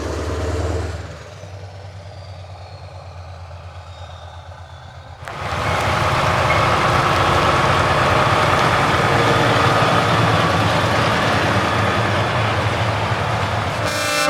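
Truck engines with open exhausts. A low engine sound fades after about a second, and about five seconds in a much louder engine sound starts abruptly and runs on steadily.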